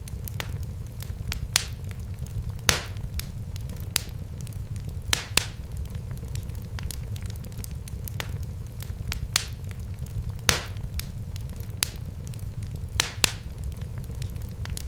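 Wood fire burning in a fireplace, crackling with irregular sharp pops over a steady low rumble; the loudest pops come a few seconds in and about two-thirds of the way through.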